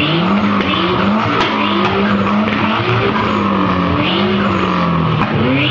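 Two tuned cars, a Nissan Skyline and a Nissan S14, revving together while standing still. Their engines climb quickly to a high steady note and hold it for a second or so, then fall back and climb again about four times. This is free-revving up against the rev limiter.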